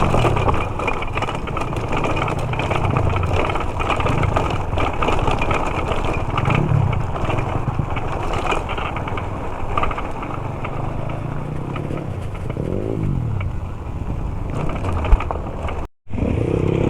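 Dirt bike coasting downhill in neutral: a steady rumble of tyres and wind, with a motor note swelling and fading a few times. The sound cuts out for a moment near the end.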